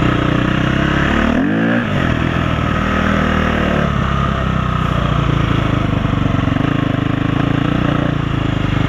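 Dirt bike engine running steadily, with a short rev about a second and a half in.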